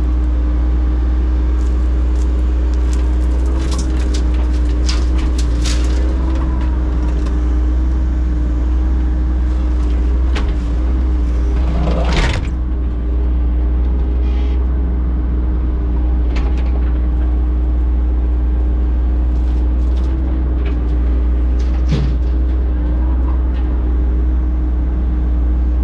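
Heavy equipment engine running steadily at a constant pitch, with occasional short knocks and scrapes from the machine at work.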